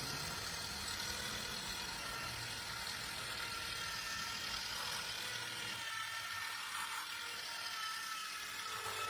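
Steady mechanical whirring with a hiss, from a small motor or machine running.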